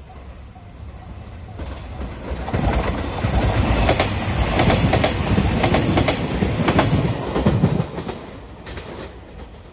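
Three-car JR Nanpu limited express diesel train passing a level crossing: it builds up, runs loud for about five seconds with the clatter of wheels over rail joints, then drops away sharply and fades near the end.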